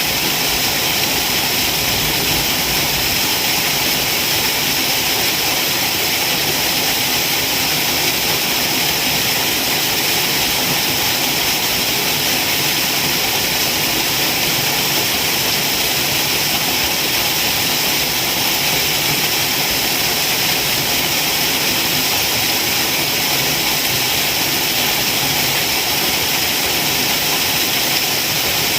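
Waterfall rushing steadily, an even hiss of falling water that stays constant throughout.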